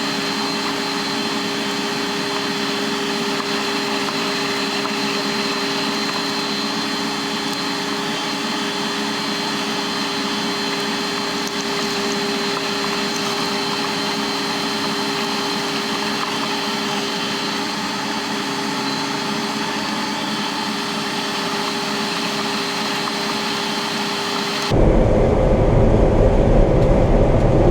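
John Deere 9500 combine running steadily while harvesting corn: an even machine hum with a constant high whine. Near the end it switches abruptly to a louder, deeper rumble.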